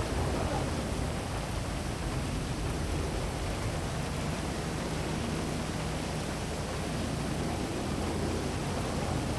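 Heavy rain falling steadily, a dense, even hiss with a low rumble underneath.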